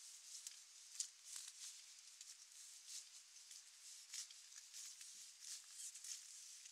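Faint rain pattering: a soft high hiss with irregular small ticks of drops landing.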